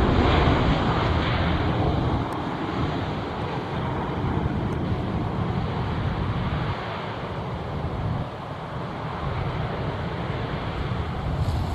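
Jet airliner engine noise, loudest at the start and easing off after about two seconds, with wind buffeting the microphone.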